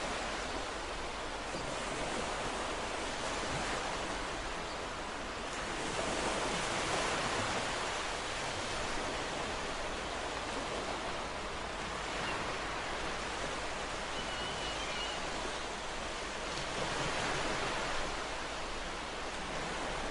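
Ocean surf: a steady wash of waves, swelling louder twice as waves come in and break.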